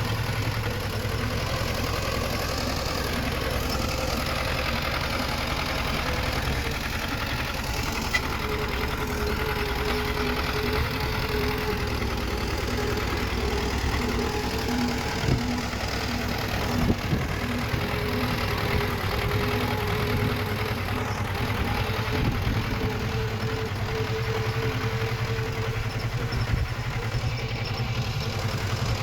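Diesel engine of a small Komatsu D20 bulldozer running steadily as it works. A faint whine comes in about a quarter of the way through and fades out near the end, and there are a couple of sharp metal clanks around the middle.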